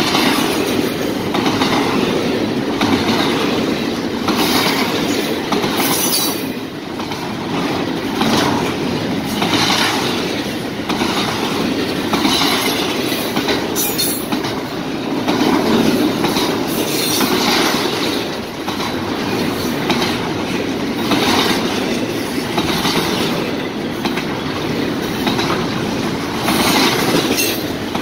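Double-stack container train's well cars rolling past at speed: a steady rumble of steel wheels on rail, with repeated clacks as wheel sets cross the rail joints.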